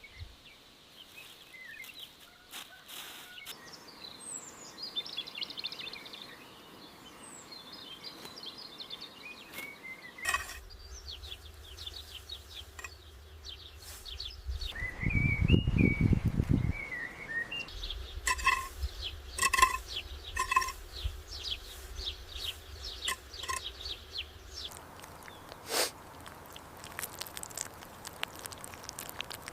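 Birds chirping and calling over outdoor ambience, with a louder low rumble for a couple of seconds about halfway through.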